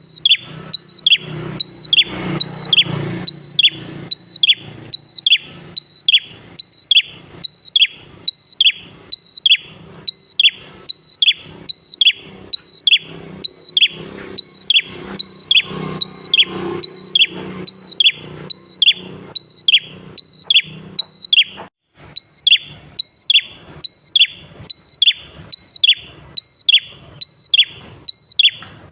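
Prinia (prenjak) singing a fast, steady series of sharp chirps, about one and a half a second, each note falling in pitch, with a very brief break about three-quarters of the way through.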